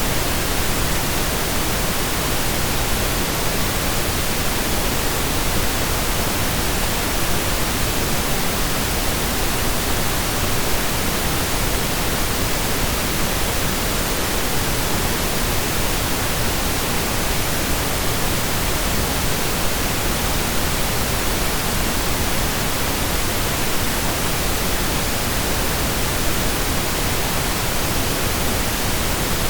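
Steady synthesized pink noise: an even, unchanging hiss with equal energy per octave, like steady rain or a waterfall.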